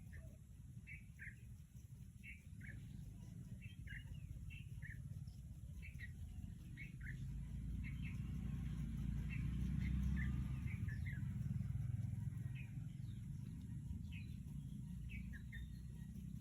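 Small birds chirping over and over, short high chirps often in pairs. Under them runs a low rumble that swells to its loudest about ten seconds in and then eases off.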